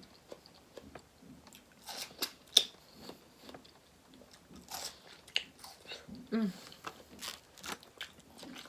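Close-miked eating: scattered crisp bites, crunches and wet chewing, with the loudest crack about two and a half seconds in and a short hum of the voice a little after six seconds.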